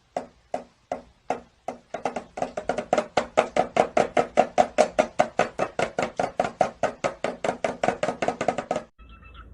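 A rapid series of short knocks, at first about three a second, quickening to about six a second after about two seconds, then stopping abruptly near the end.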